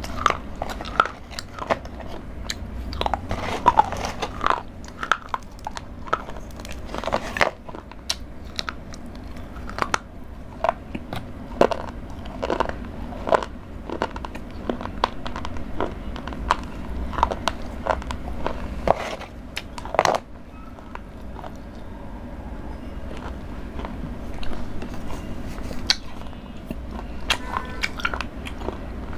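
A person chewing and crunching Cadbury Dairy Milk chocolate close to a clip-on microphone, with frequent sharp crunches that thin out after about twenty seconds.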